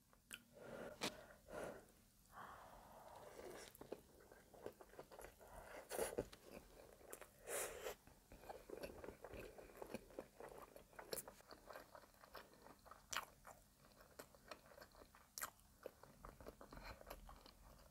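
A person chewing a gooey bite of caramel-topped brioche French toast bake close to the microphone: quiet, wet mouth sounds with irregular small clicks and smacks, a couple of them louder about six and seven and a half seconds in.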